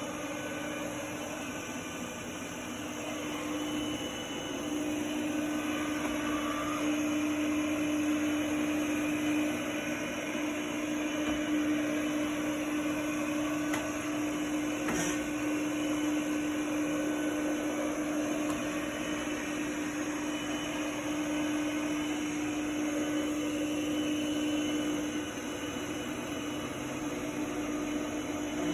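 Samsung POWERbot SR10M7010UB robot vacuum running: a steady motor hum with a single held tone. It grows louder a few seconds in and eases off a little near the end.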